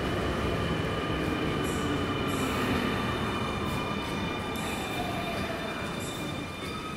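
Keio electric train pulling into the platform and slowing, with wheels running on the rails and motors and brakes giving a steady high whine and squeal. A fainter tone falls slowly in pitch as the train loses speed.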